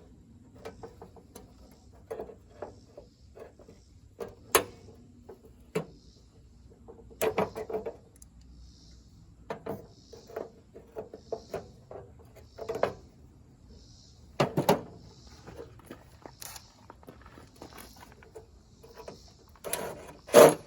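Vise-grip locking pliers clicking, scraping and knocking against a seized screw in tractor sheet metal as it is twisted. The clicks and knocks are irregular, with a few louder metallic hits.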